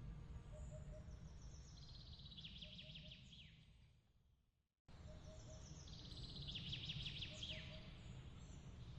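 Faint birdsong, rapid chirps and trills, over a low steady rumble of outdoor noise. About four seconds in it fades out to silence, then cuts back in abruptly half a second later with the same bird pattern, as at the seam of a looped ambience track.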